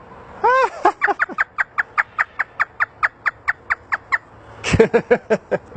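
African grey parrot mimicking a hysterical laugh: one rising-and-falling whoop, then a fast run of short falling "ha" notes, about five a second, for some three seconds, with a few more laugh syllables near the end.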